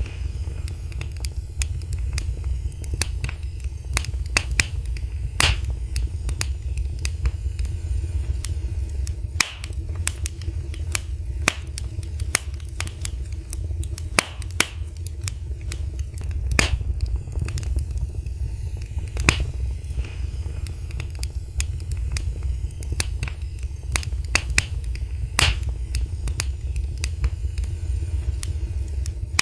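Wood fire burning in a fireplace, crackling and popping in sharp, irregular snaps a few times a second over a steady low rumble of the flames.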